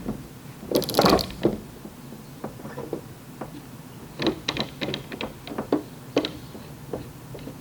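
Metal clatter and clicks from a bridge lifter being repositioned and readjusted during a glue-pull dent repair. A loud rattle comes about a second in, and a quick run of sharp clicks follows between about four and six and a half seconds.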